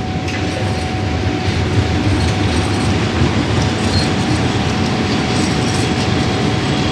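Special passenger train passing close by: a loud, steady rumble of the train running along the track, with faint clicks.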